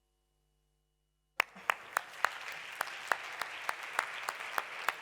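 Audience applauding. It starts suddenly about a second and a half in, and a number of loud single claps stand out from the steady clapping.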